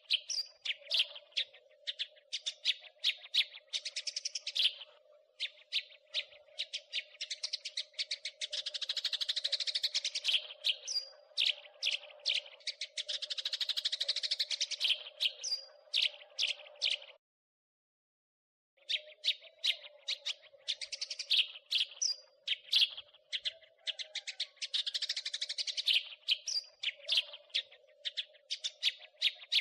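House sparrows chattering in dense, rapid runs of sharp chirps, with a steady low hum underneath. The sound cuts out to total silence for about a second and a half a little past the middle, then the chirping resumes.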